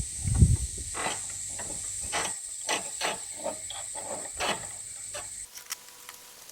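Scattered clicks and knocks of hand tools and metal mower parts being handled while a spindle pulley and nut are fitted, over a steady high hiss that stops about five and a half seconds in.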